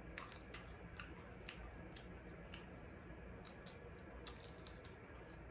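Quiet chewing of fried fish, with scattered soft, wet mouth clicks and smacks at irregular intervals.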